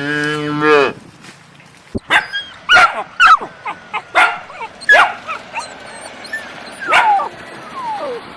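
A cow's moo ends in the first second. Then a dog barks and yelps, about eight short, sharp calls that drop in pitch, spread over the next six seconds.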